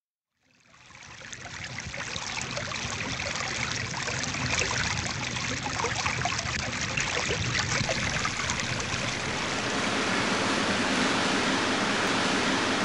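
Stream water running and babbling, fading in after about a second of silence and then holding steady.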